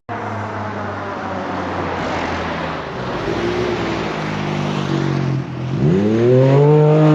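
A motor vehicle engine running steadily, then revved up sharply about six seconds in and held at higher revs.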